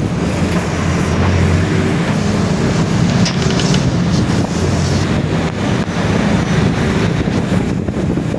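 Diesel engine of a Mercedes-Benz OF-1721 BlueTec 5 city bus running steadily under way, with road and wind noise.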